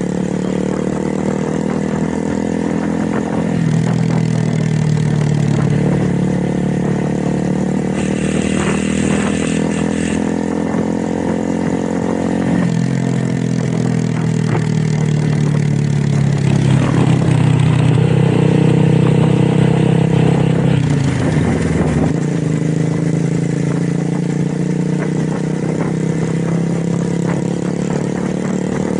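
Motorcycle engine and exhaust running under way, the engine note rising and falling and dropping suddenly to a new pitch a few times, as with gear changes.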